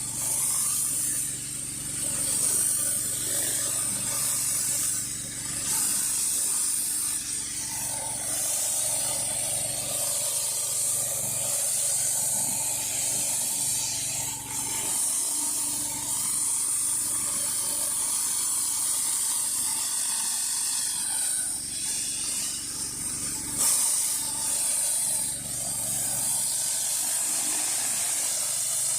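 High-pressure water spraying from a 16-inch Whisper Wash surface cleaner as it is run over a concrete driveway, a steady hiss, with a pressure washer's engine running steadily underneath.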